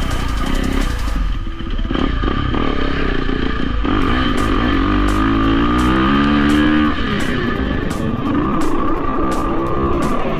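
Dirt bike engine running and revving, its pitch climbing between about four and seven seconds in and then dropping off, under background music with guitar and a steady beat.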